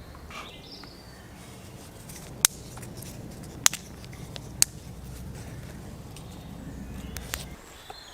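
Small campfire of resinous fatwood and dry twigs crackling, with several sharp pops spread through it. A bird chirps faintly near the start.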